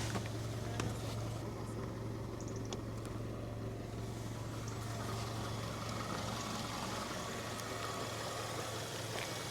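Car engine idling with a steady low hum, left running while the car stands still.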